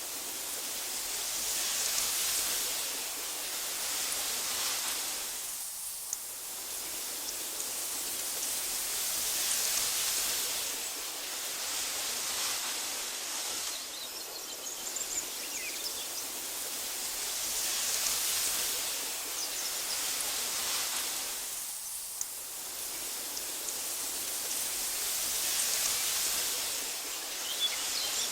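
Wind blowing through tall meadow grass, a steady hiss that swells and eases in slow gusts about every eight seconds. A few faint, short, high chirps come through about halfway in and again near the end.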